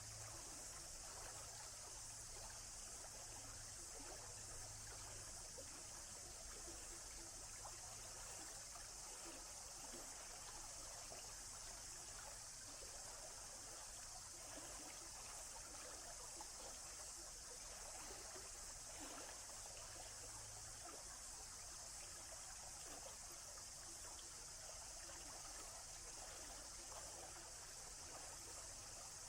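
Flowing stream water trickling and splashing steadily, with a bright, hissing wash.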